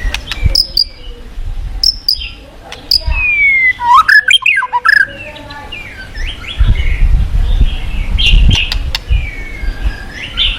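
White-rumped shama singing: sharp chips and clicks with several slurred whistled notes about four seconds in. Rushing river water runs underneath, stronger in the second half.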